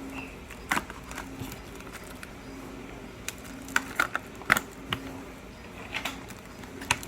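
Irregular light clicks and knocks from handling an animal shipping box and its packing while a turtle is taken out, over a faint low hum.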